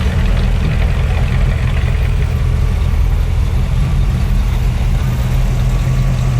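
A car engine idling with a low, steady rumble.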